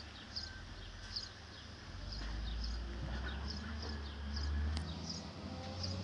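A small bird chirping over and over, short high chirps about twice a second, over a low rumble that grows louder in the middle.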